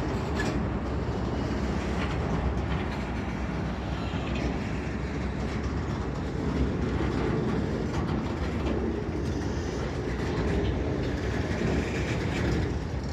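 A CSX freight train's cars rolling past at close range: a continuous, steady rumble of steel wheels on the rails.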